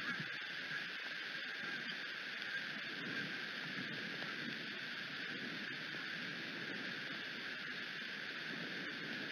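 Steady rain hiss with a faint patter of scattered drops and a low rumble underneath.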